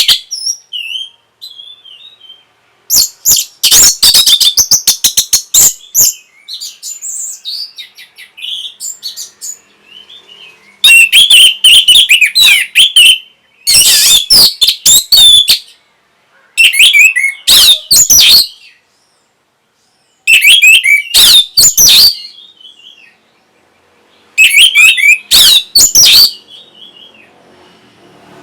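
Orange-headed thrush (punglor) singing: loud bursts of rapid, varied whistled phrases, about six of them a second or two long, with softer song and short pauses between.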